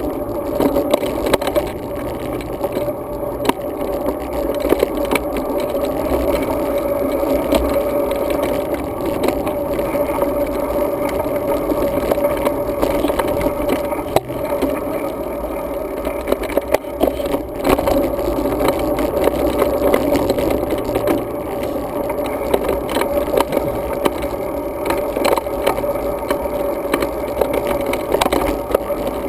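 Steady muffled rumble of a road bike in motion, recorded on a GoPro Hero 2 mounted for a rider's-eye view: wind and tyre noise, dotted with frequent small rattles and clicks from bumps in the road.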